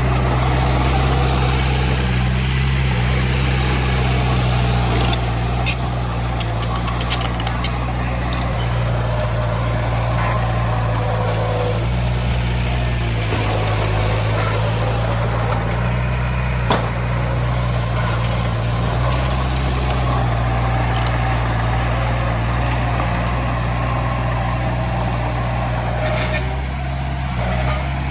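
Heavy diesel earthmoving machinery running steadily under load, its engine note dipping briefly near the middle. Light metallic clicks and squeaks come through around a quarter of the way in.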